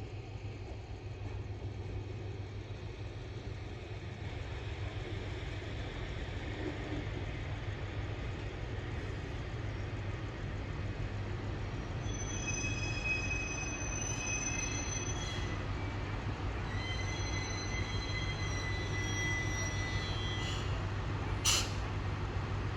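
A train moving slowly over the rails with a steady low hum. From about halfway its wheels squeal in thin, high, on-and-off tones, and there is a sharp click near the end.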